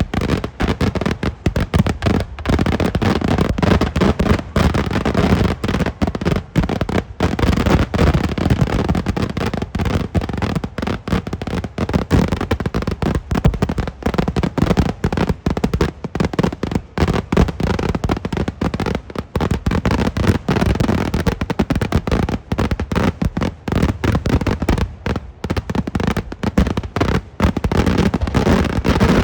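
Kerala vedikkettu fireworks: a dense, continuous barrage of firecracker bangs, many explosions a second overlapping with no let-up.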